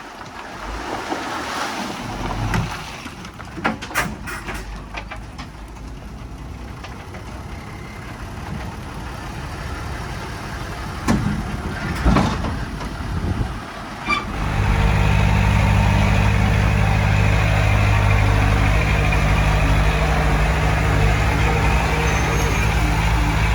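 Heavy diesel machinery: a few sharp knocks and clanks over a quieter engine sound, then about fifteen seconds in a heavy diesel engine close by comes up loud and runs steadily.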